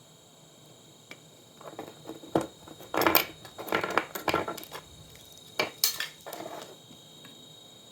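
Clatter, knocks and scrapes of hard metal and plastic parts being handled and pulled apart during a monitor teardown, in an uneven run of sharp hits from about a second and a half in until near the end, loudest around three and six seconds in.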